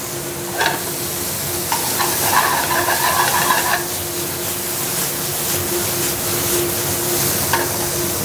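Lobster tail, garlic and cherry tomatoes sizzling as they sear in a hot sauté pan on a gas range. The pan is stirred and shifted, with a few short metal clinks and a scraping for a second or two about two seconds in.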